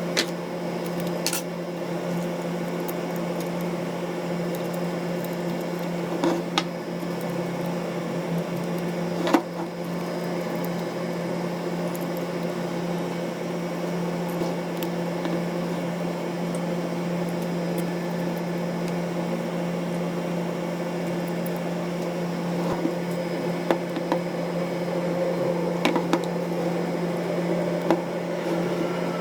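A steady, even machine hum at one low pitch, with a few short, light clicks scattered over it; the loudest click comes about nine seconds in.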